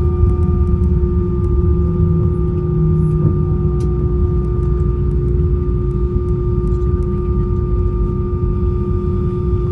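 Airbus A320 cabin noise while taxiing after landing: a steady low rumble from the engines at idle and the rolling airframe, with a steady whine held at a couple of fixed pitches.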